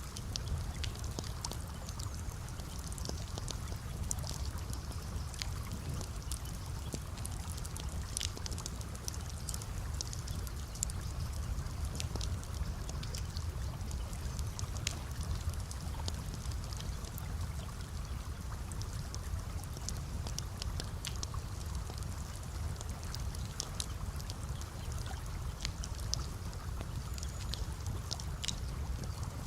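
Campfire crackling, with frequent small sharp pops, over a steady low rush of flowing water.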